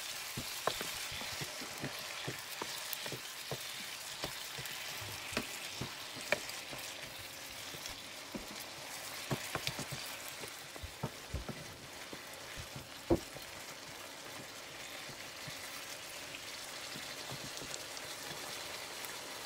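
Minced beef with vegetables frying in a pan over low heat, a steady sizzle, with irregular taps and scrapes of a wooden utensil stirring it; the sharpest tap comes about thirteen seconds in.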